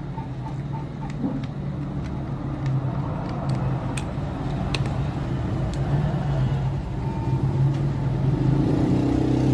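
Several sharp plastic clicks as the back cover of an Infinix Hot 11 smartphone is pried open, over a steady low rumble like nearby road traffic.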